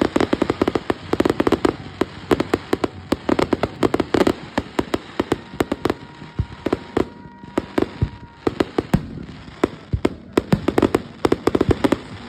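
Fireworks going off in a rapid, continuous string of sharp cracks and pops, many a second, easing off for a few seconds midway and then picking up again.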